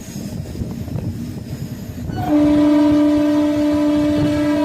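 Locomotive horn sounding one long steady blast that starts about two seconds in, over the rumble and clatter of a moving train.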